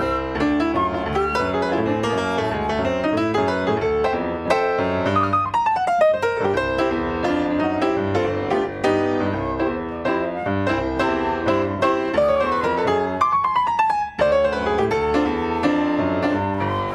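Two pianists playing a swing-era jazz standard as a duet, with fast descending runs about five seconds in and again around twelve to fourteen seconds in.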